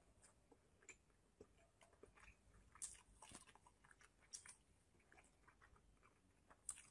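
Faint mouth sounds of someone chewing sushi: scattered soft clicks and wet smacks, a few of them louder about three seconds, four and a half seconds and near seven seconds in.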